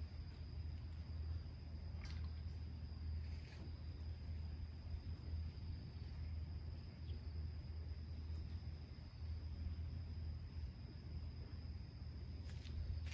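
Crickets chirping at dusk: one steady high trill and a faster, very high pulsing chirp at about two pulses a second. Beneath them runs a steady low rumble, with a few faint clicks.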